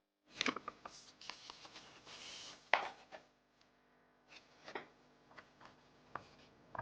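Soft rustling and rubbing with scattered light clicks and taps, quiet and irregular.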